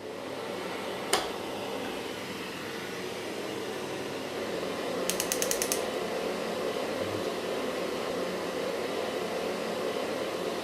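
Kärcher vacuum cleaner running steadily, with a sharp click about a second in and a quick rattle of clicks around halfway.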